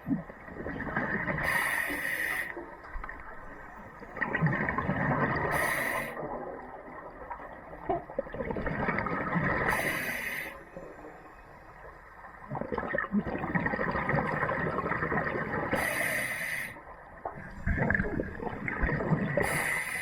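Scuba diver breathing underwater through a regulator: brief hissing inhalations alternating with bubbling, gurgling exhalations, a full breath about every four seconds.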